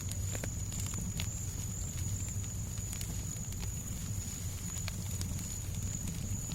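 Fireplace fire crackling: irregular small sharp pops and snaps over a steady low rumbling noise bed, with a thin steady high whine held throughout.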